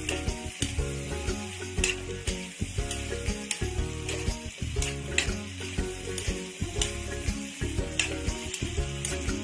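Diced tofu sizzling as it stir-fries in a metal wok, with a metal spatula scraping and clicking against the pan many times as it turns the pieces.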